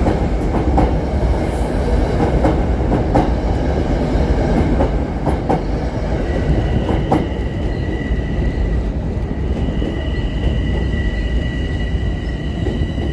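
Metro-North commuter train running past: a steady heavy rumble with wheels clicking over the rail joints. A steady high-pitched squeal joins about six seconds in.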